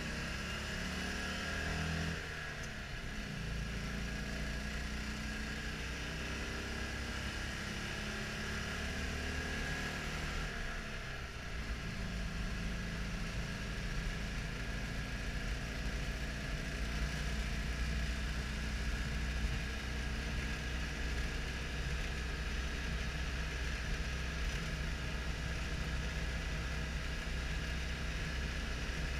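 Citroën Dyane 6's 602 cc air-cooled flat-twin engine, heard from inside the cabin while driving. The revs fall and the note shifts about two seconds in and again around eleven seconds as gears are changed, then the engine runs steadily at cruise.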